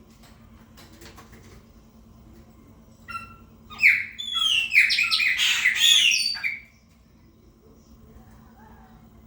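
Chopi blackbird singing: one loud burst of about three seconds of quick, varied whistled notes that glide up and down, starting about three seconds in.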